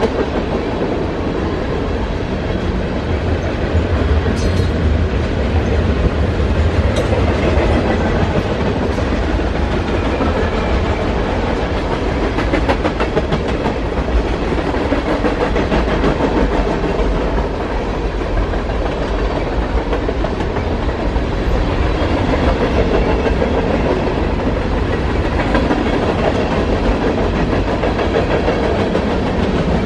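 Freight cars of a mixed manifest train (covered hoppers, tank cars and boxcars) rolling steadily past on the near track: a continuous rumble of steel wheels on rail.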